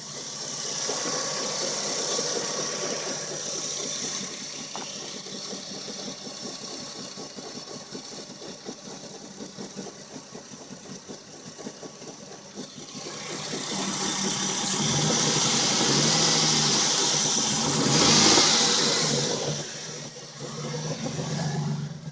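Dodge Intrepid engine running, rising quickly at the start, revved up and held for several seconds about two thirds of the way through, then dropping back, with one more short rev near the end.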